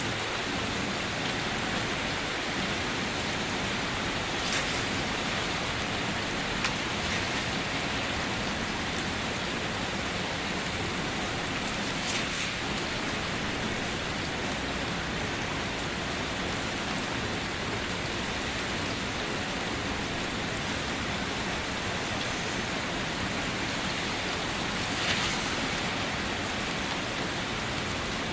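Steady rain falling at night, an even hiss with occasional louder individual drops landing close by.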